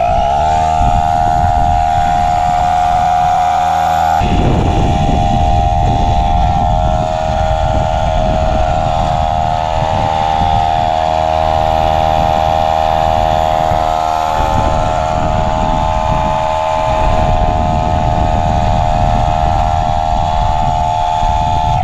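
Portable electric tire pump (air compressor) running steadily, inflating a tractor tire, with an even buzzing tone that starts suddenly and cuts off at the end.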